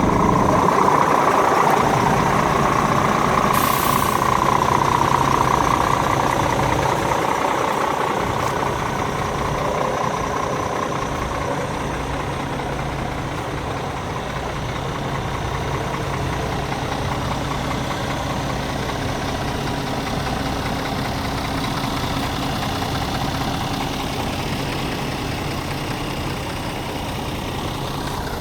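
Scania G410 truck's 13-litre inline-six diesel idling steadily. It is louder at first and settles over the first dozen seconds, with a short hiss about four seconds in.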